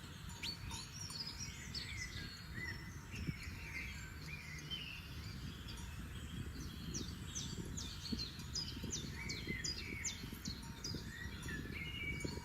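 Several forest songbirds singing and chirping together, with a quick run of sharp notes near the middle, over a steady low background rumble.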